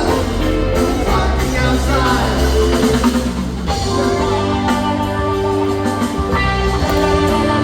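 Rock band playing live in an instrumental passage, with electric guitar lines over bass and drum kit; the band shifts to a new figure a little over halfway through.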